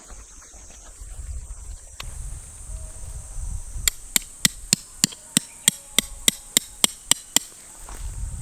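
About a dozen quick, evenly spaced hammer blows, roughly three or four a second, starting about four seconds in and stopping abruptly. Insects trill steadily underneath.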